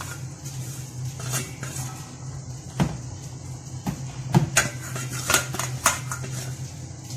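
Spoon clinking and tapping against a bowl and spice containers as spice powders are spooned onto the chicken: about seven separate sharp clinks at uneven spacing, over a steady low hum.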